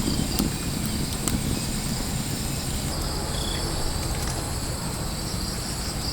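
Insects, crickets or similar, trilling steadily at a high pitch, several layered tones, over a low steady rumble of outdoor noise.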